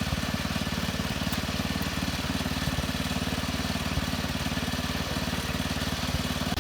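Small engine idling steadily, with a fast, even low pulse.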